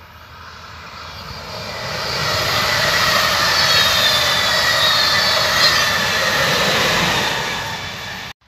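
Passenger train of red coaches passing close at speed: a rising rush of wheels on the rails with a wavering high whine, loudest as the coaches go by, then fading and cut off abruptly near the end.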